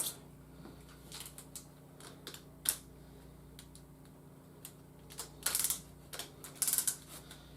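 Hard plastic parts of a large toy robot figure clicking and tapping as it is handled, in scattered single clicks with a few quick clusters.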